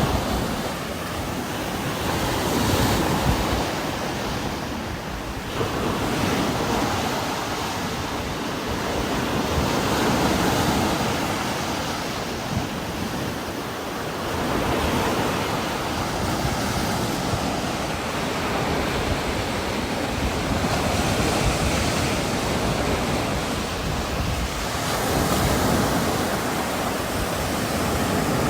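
Heavy rain with strong wind gusting through trees. It is a continuous rushing noise that swells and eases every five or six seconds.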